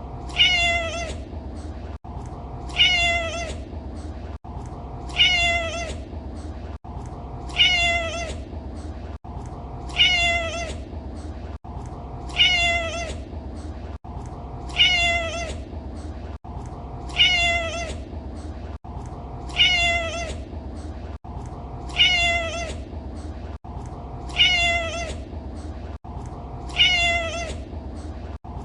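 Domestic cat meowing: the same short meow repeats about every two and a half seconds as a loop, over a steady low hum.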